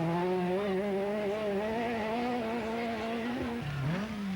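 Rally car engine running hard at high revs on a special stage, its note steady with a slight waver. Near the end the note drops sharply and climbs again.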